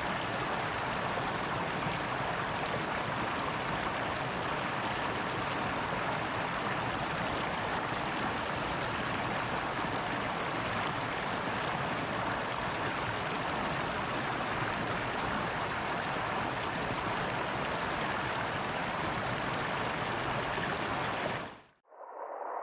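Steady, even rush of flowing water, like a stream. It cuts off suddenly near the end, and after a moment of silence a duller, muffled sound begins.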